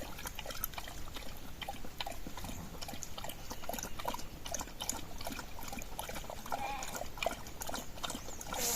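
Sheep bleating faintly a couple of times near the end, over a steady trickle of running water and many small scattered clicks.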